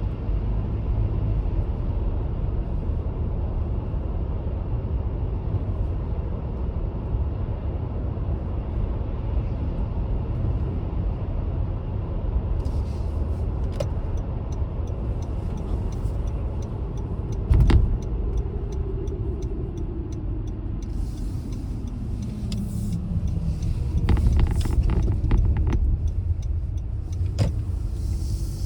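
A car driving with a steady low road and engine rumble. About 18 s in there is a single sharp thump, then a tone falls in pitch over several seconds, as the car slows. A few clicks come near the end.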